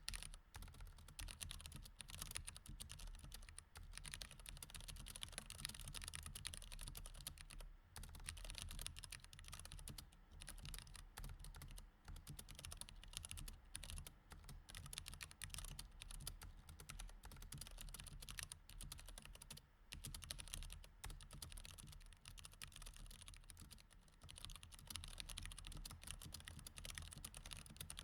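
Mechanical keyboard with Cherry MX Red switches being typed on in fast, continuous runs of keystrokes, broken by brief pauses now and then.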